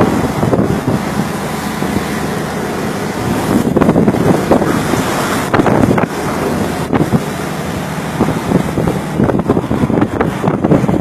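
Storm wind buffeting the microphone over the rush of waves around a tuna fishing boat tossing in heavy seas, loud and uneven in gusts.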